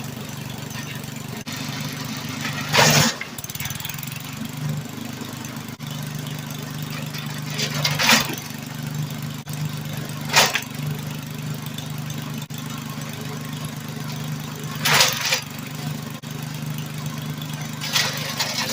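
Mackissic Mighty Mac 760A wood chipper running steadily on its small gasoline engine. Five short, loud bursts come a few seconds apart as branches fed in are struck by the spinning cutter.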